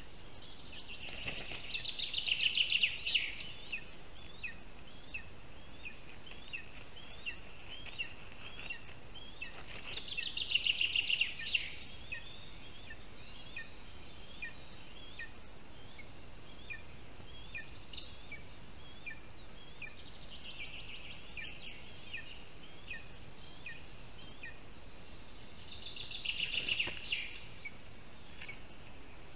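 Birds calling: a short, high chirp repeated about twice a second, broken by three louder, quicker chattering bursts about two, eleven and twenty-seven seconds in.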